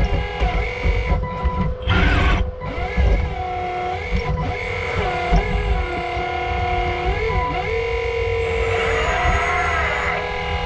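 1/8-scale 385CF RC excavator's hydraulic pump and motors whining over a low rumble. The whine dips and rises in pitch several times as the machine works under changing load.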